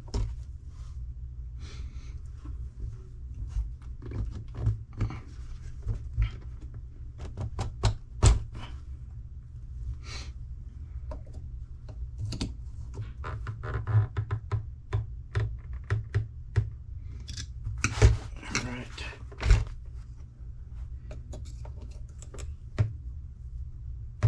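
Irregular small metallic clicks, taps and knocks of a pinion gear being fitted onto an RC car's electric motor shaft and positioned by hand and with small tools, with a few louder knocks. A steady low hum runs underneath.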